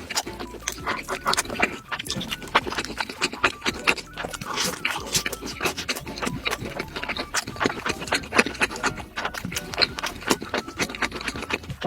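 Close-miked eating sounds: chewing with many irregular wet smacks and mouth clicks.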